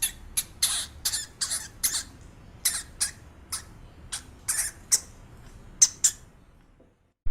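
A small pet squeaking: a string of short, high-pitched squeaks, roughly two a second at uneven spacing, that stops about six seconds in.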